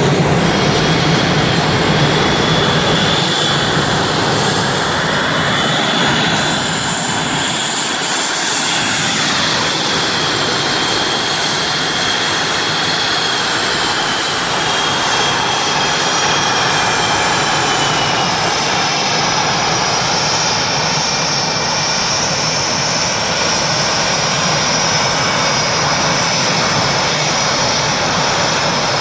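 Aircraft engines running steadily, with high-pitched whines that slowly drift down in pitch.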